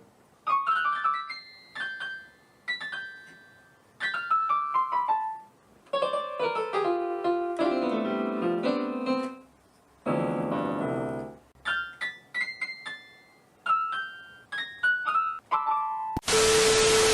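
Piano notes struck in short, falling runs and denser clusters of low notes, each note dying away. Near the end a sudden loud hiss with one steady tone cuts in.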